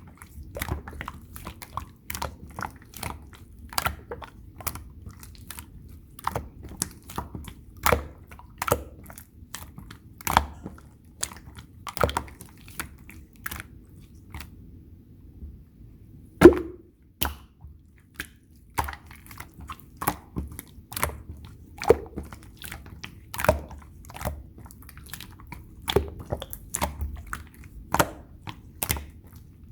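Milk pongdang slime being squished and poked by hand, giving irregular wet clicks and pops, several a second. The sounds stop for about two seconds midway, then start again with one louder pop.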